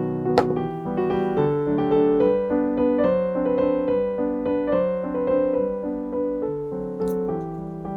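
Gentle background piano music with held notes changing every half second or so. A sharp click sounds about half a second in, and a brief soft clatter comes near the end.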